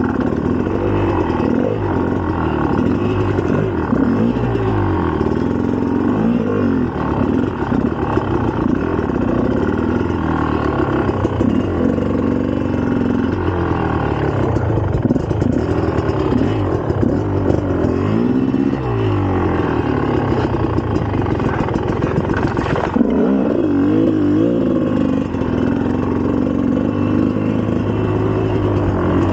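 2004 GasGas EC300 two-stroke dirt bike engine under way, its pitch rising and falling over and over as the throttle is opened and closed. A brief knock about 23 seconds in.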